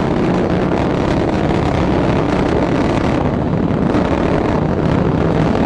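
Atlas V rocket's RD-180 first-stage engine running during ascent: a loud, steady rumble.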